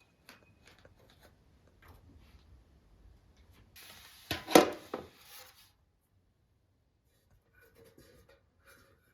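Small clicks and rustles of objects being handled, then a sharp scrape with a hiss about four seconds in, lasting a little over a second, followed by faint rustling.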